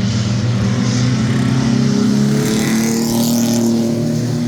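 Several mini-truck race engines running hard together around the oval, a steady blend of engine notes that rises and falls slightly as the trucks go through the laps.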